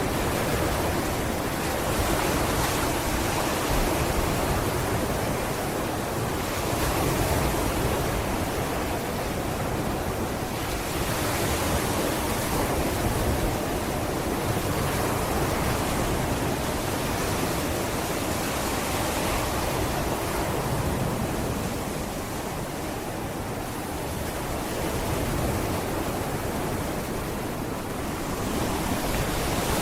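Sea waves breaking on a beach: a steady rush of surf that swells and eases every few seconds.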